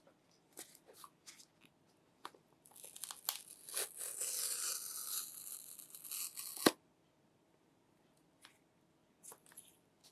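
Paper seal strip on a phone's retail box being torn off: a few small handling clicks, then about four seconds of continuous tearing that ends in one sharp snap.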